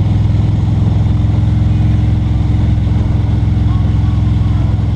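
Motor vehicle engine running steadily at a constant speed, a loud low drone with road and wind noise over it.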